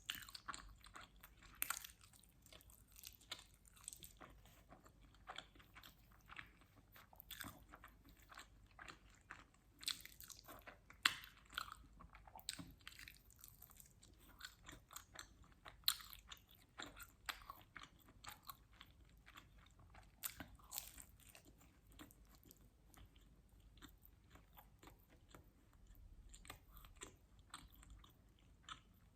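Close-miked eating of quattro stagioni pizza: continuous chewing with wet mouth clicks and repeated crunchy bites. The sharpest crunches come about eleven and sixteen seconds in.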